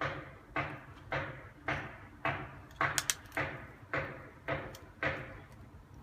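A cockatiel's beak pecking, a sharp tap about twice a second, each with a short fading tail.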